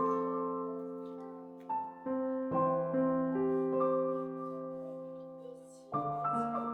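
Background music: slow, gentle piano chords, each struck and left to fade before the next, with a new chord about every one to three seconds.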